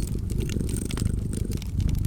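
A cat purring steadily, low and rapid, with a wood fire crackling over it in many small sharp pops.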